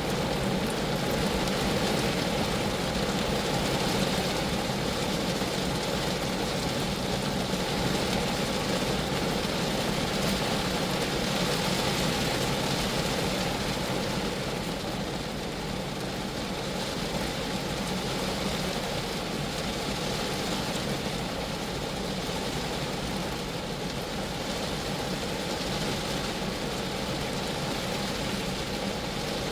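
Rain falling steadily on a Geo Metro's roof and body, a continuous even wash of drops with no breaks, easing slightly about halfway through.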